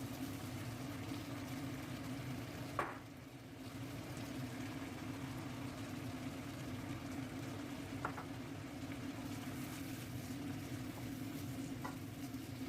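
Food sizzling in a frying pan, a steady hiss over a low hum, with a few sharp utensil knocks, the loudest about three seconds in.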